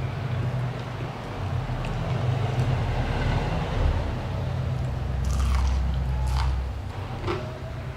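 Close-miked biting and chewing of food, with a low steady rumble underneath and a few crisp crunches in the second half.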